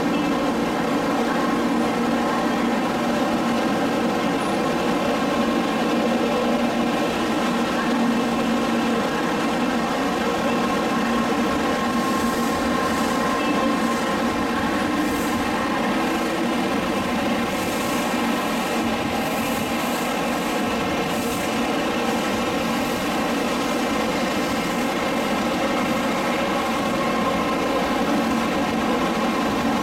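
N700-series Shinkansen train running past along the platform: a continuous, even train noise with a steady hum of several tones.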